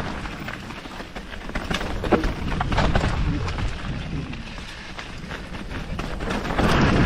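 Canyon Spectral AL6 full-suspension mountain bike descending a wet, rough trail: a steady rumble of tyres and wind with frequent sharp knocks and rattles from the bike over rocks and roots, loudest near the end.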